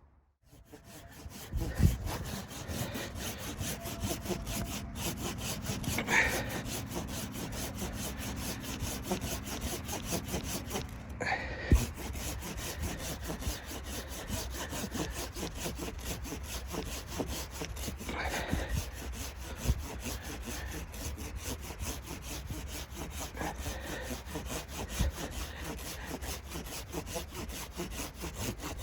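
Continuous rasping, scraping noise, as of wood being worked, with a few sharp knocks about two, six, twelve and eighteen seconds in.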